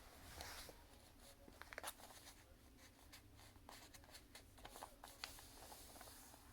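Faint rustling of a sheet of paper being folded lengthwise and creased, with scattered short crinkles.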